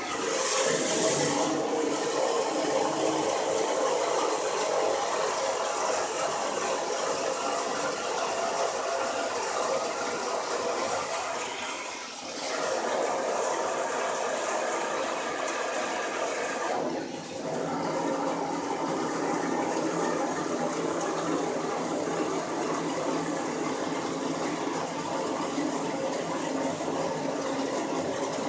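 Water sloshing and churning steadily inside an antique rocker tub washing machine. The sound briefly eases twice, about twelve and seventeen seconds in.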